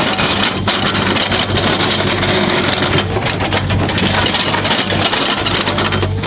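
Backhoe's diesel engine running steadily under work, with a dense mechanical rattle and scattered short clicks over it.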